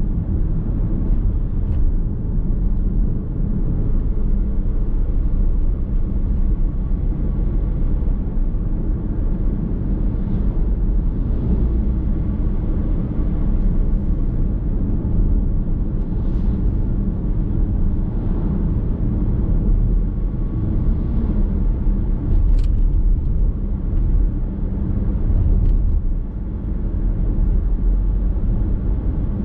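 A car driving at steady speed, heard from inside the cabin: a continuous low rumble of road, tyre and drivetrain noise, with a couple of faint short clicks near the end.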